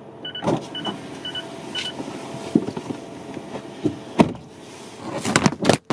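Short electronic beeps repeating about twice a second, stopping about two seconds in, followed by scattered clicks and knocks.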